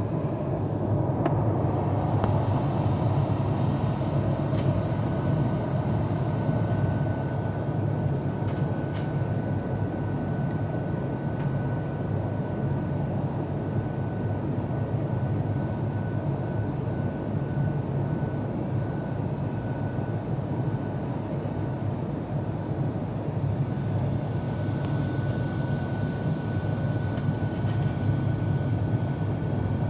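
Steady in-flight cabin noise of an Airbus A350-900 with Rolls-Royce Trent XWB-84 engines: a low, even rumble and hiss of airflow and engines. A faint high steady tone comes in about seven seconds in, drops out for a few seconds, then returns.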